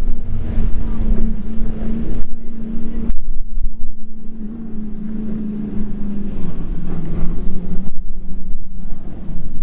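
Motorboat engines running as a boat goes through the inlet, a steady hum that drops in pitch about two-thirds of the way through, with wind buffeting the microphone.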